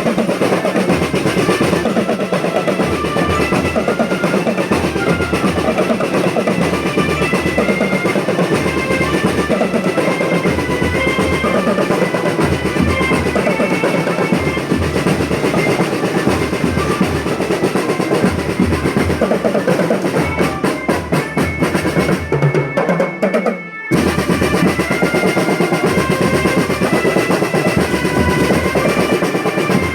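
School marching drum band playing: rapid snare-drum rolls over a steady bass-drum beat, with short pitched melody notes on top. The playing dips and drops out for a moment about three-quarters of the way through, then carries on.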